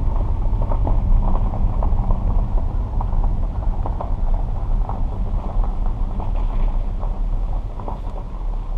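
Low, steady rumble of a car rolling slowly, heard from inside the cabin, with scattered light clicks and knocks.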